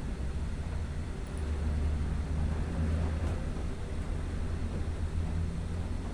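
Distant thunder rumbling low and continuously, swelling between about two and three and a half seconds in.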